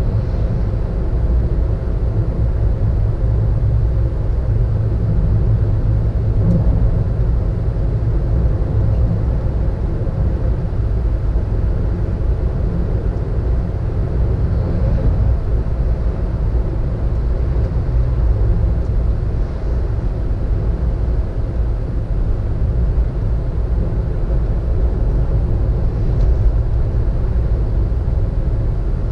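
A car on the move, heard from inside the cabin: a steady low rumble of engine and road noise.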